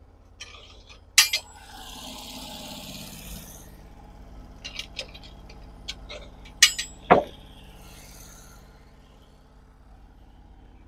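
Scattered knocks and clinks, with a short scraping rush about two seconds in and a heavy knock about seven seconds in, as sawn white oak pieces are flipped over and set on the sawmill bed for the next cut.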